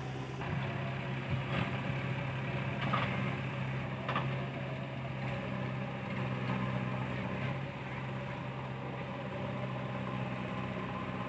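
Heavy machine's diesel engine running steadily at an even pitch, with a few faint knocks.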